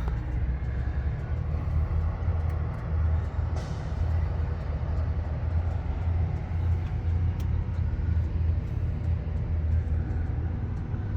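An engine idling steadily, a low, even rumble with no revving.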